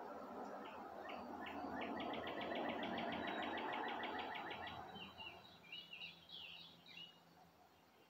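A wild songbird sings a fast trill of evenly repeated high notes, followed by a few short, varied chirps. Under it a steady rushing noise fades away about five seconds in.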